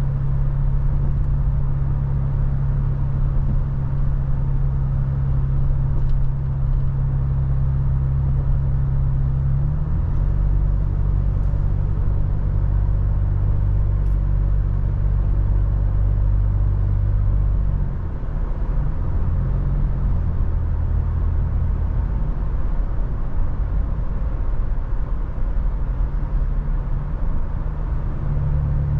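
Toyota FJ Cruiser's V6 engine and road noise droning steadily on the move. The engine note shifts about ten seconds in and again a little before twenty seconds, as the revs change.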